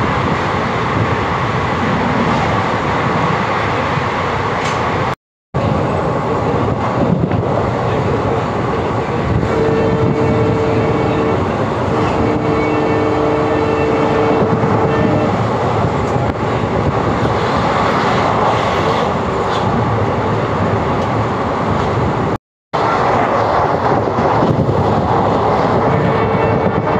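Passenger train running, heard from inside a general-class coach by an open barred window: a loud, steady rumble. A horn sounds a steady two-pitch note for several seconds around the middle and briefly again near the end. The sound cuts out for a split second twice.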